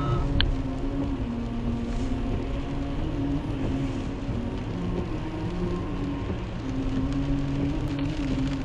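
Car driving in heavy rain, heard from inside the cabin: a steady engine and road drone whose hum shifts slightly in pitch, with rain on the car. A sharp click about half a second in.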